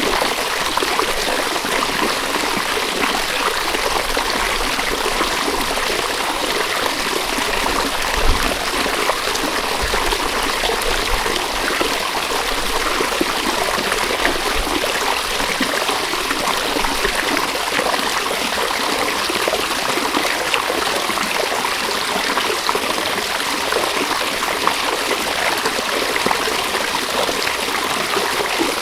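River water flowing, a steady, unbroken rush with no pauses.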